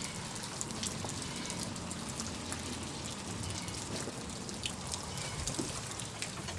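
Steady rain falling, with many separate drops ticking as they land.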